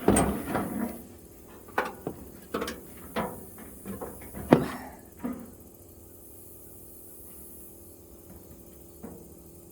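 Sharp metal taps and clanks from working a bent tab on a sheet-metal toolbox drawer slide, a quick irregular run of knocks over the first five seconds or so, the loudest about four and a half seconds in. They then stop, with one small click near the end.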